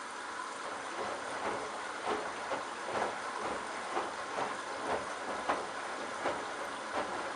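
Candy Bianca washing machine drum turning a load of wet towels: a steady rush of water, with a splashing thud about twice a second as the towels fall in the drum, starting about a second in.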